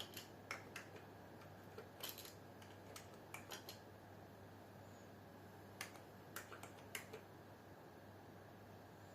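Faint, irregular keystrokes on a computer keyboard, in small clusters with pauses between, over a steady low hum.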